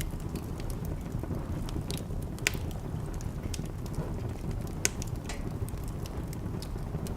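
Wood fire crackling in a fireplace: a low steady rumble with scattered sharp crackles, and two louder pops about two and a half and nearly five seconds in.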